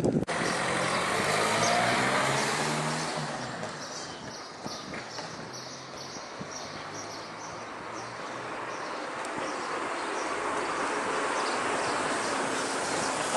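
A motor vehicle passes by, its engine note dropping as it goes, loudest about two seconds in and fading away within about five seconds. After that, steady wind blowing.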